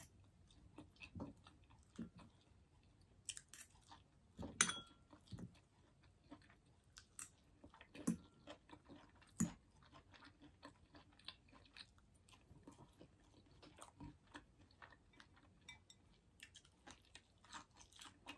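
Close-miked chewing and soft crunching of a leafy salad, heard as irregular faint crunches and mouth clicks, with a brief light clink of a fork on a glass bowl a few seconds in.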